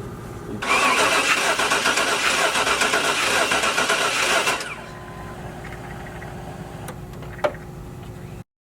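Chevrolet Suburban engine cranked over by its starter for about four seconds without firing, pulsing rhythmically as it turns over: the cranking for a compression test on a misfiring bank. A single sharp click follows near the end.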